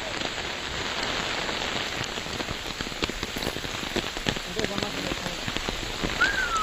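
Steady rain, with many single drops ticking sharply on nearby surfaces. Faint voices come in about four and a half seconds in, and a short falling high-pitched note sounds near the end.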